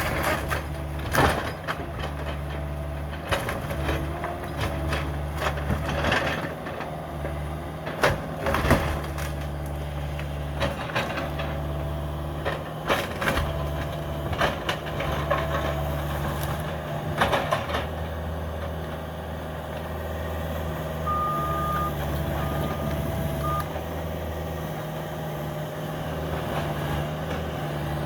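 Cat 305 mini excavator's diesel engine running steadily under load, with repeated sharp cracks, knocks and crunches of a house being torn apart, thickest in the first half. About three-quarters of the way through, a short high beep sounds three times in quick succession.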